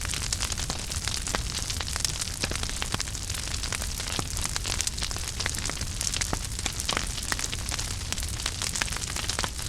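Wood fire burning in a fireplace: many quick irregular crackles and pops over a steady hiss and low rumble of flames.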